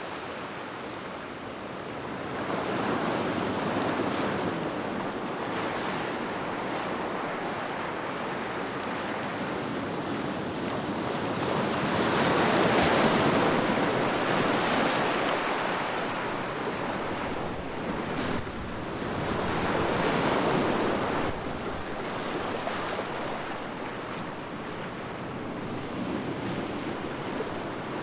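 Sea waves washing onto a shore in slow swells, the loudest about halfway through and another shortly after, with some wind on the microphone.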